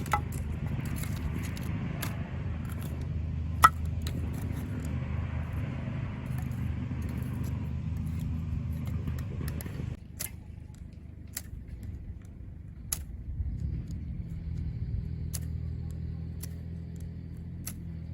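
A steady low engine-like hum with scattered light clicks and clinks. About ten seconds in the sound changes abruptly: the hiss above the hum drops away and the hum goes on a little quieter.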